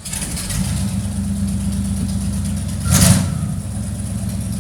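Ford 351 Windsor V8 idling steadily just after a cold start, with one brief louder surge about three seconds in.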